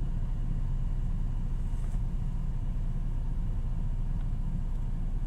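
Off-road truck engine running steadily at low speed, a low even rumble.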